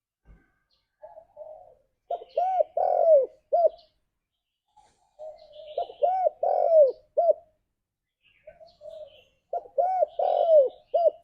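Spotted dove cooing: three repeated song phrases, each opening with soft notes that build to loud arched coos and end on a short clipped note.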